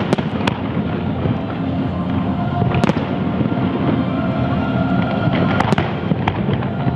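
Large aerial fireworks display: a continuous dense rumble of bursting shells and crackle, with sharp single reports standing out every few seconds.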